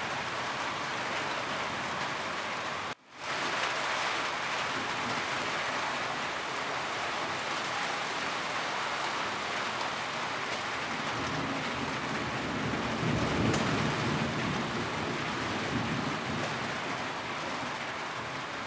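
Steady rain falling on a roof, an even hiss. It cuts out for an instant about three seconds in and fades back up, and a low rumble swells around two-thirds of the way through.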